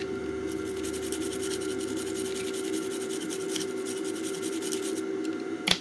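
Fast, scratchy rubbing as the vinegar-wet corroded battery contacts of a timer plug's circuit board are wiped clean, over a steady electrical hum, with one sharp click near the end.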